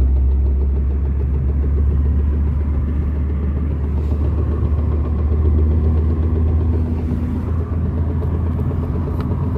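Car on the move in gear: a steady low engine and road rumble, with the knock from the drivetrain that comes whenever a gear is engaged and stops with the clutch pressed or in neutral.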